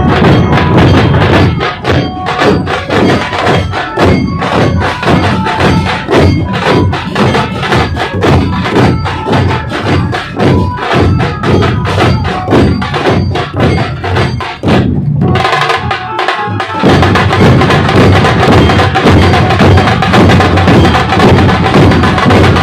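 Dhol drum troupe playing a dense, fast, loud rhythm of drum strikes. About fifteen seconds in, the playing thins briefly, then comes back fuller.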